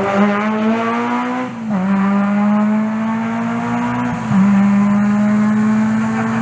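Rally car accelerating hard through the gears, engine pitch climbing steadily, with upshifts about one and a half seconds in and again about four seconds in.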